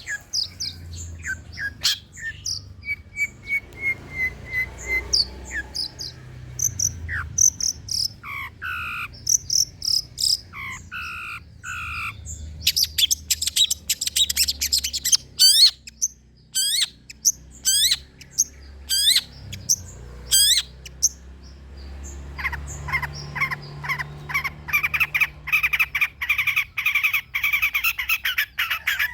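Long-tailed shrike (cendet) singing a long, varied song: series of clear whistled notes, harsh downward-sweeping calls, fast rising chirps, and dense buzzy chattering near the end.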